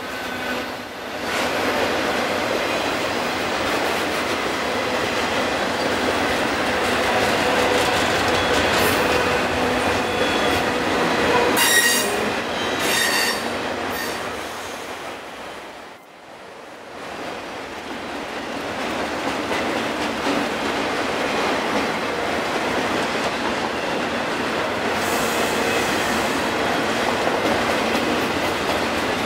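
Freight train of autorack cars rolling past at speed: a steady rush of wheel and rail noise with clatter, and short high-pitched wheel squeals about twelve and thirteen seconds in. The noise drops away sharply around sixteen seconds, then builds back.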